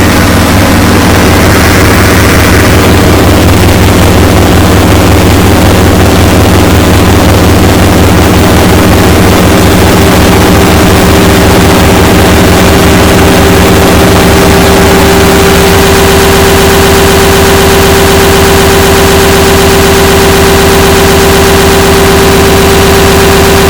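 Harsh noise music: a dense, distorted wall of noise with steady droning tones, kept at a constant very high level. About 15 seconds in, it shifts to a fast pulsing flutter while a mid-pitched drone grows stronger.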